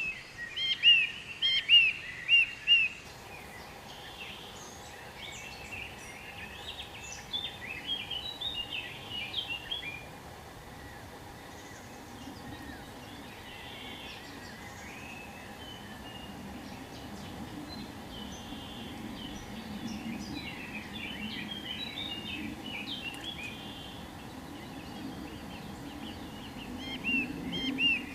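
Small birds chirping and calling in quick runs of short, high notes, loudest in the first few seconds and again near the end, over a steady low background noise.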